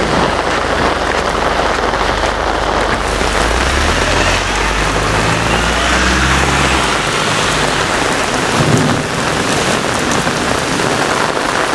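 Heavy rain pouring down steadily in a severe thunderstorm, with a low rumble through about the first seven seconds.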